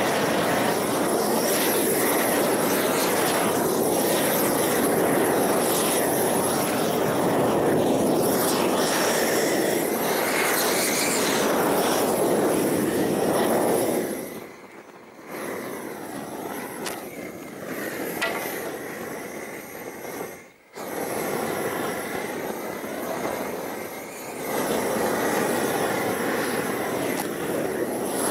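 Homemade propane torch burning with a steady rushing noise while heating torch-on roll roofing. The flame drops back about halfway through, cuts out briefly, and comes back up to full near the end.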